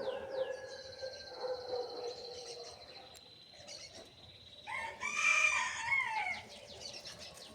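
Bird calls: one loud, long call about five seconds in, over scattered small-bird chirps. A steady high tone runs through the first half.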